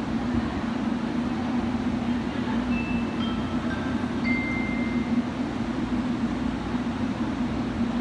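Steady hum and rumble of an electric train at a station platform, with a few brief high-pitched tones about three to five seconds in.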